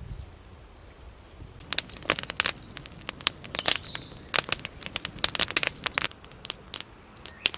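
Wood campfire crackling, with sharp irregular snaps and pops starting about two seconds in. Birds chirp faintly behind it.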